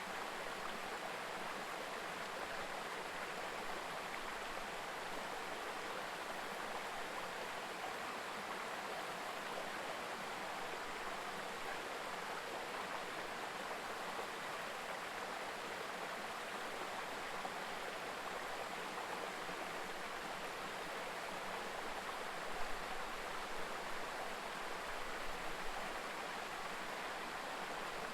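Mountain river babbling in a steady, even rush of water. Near the end come a few brief low thumps.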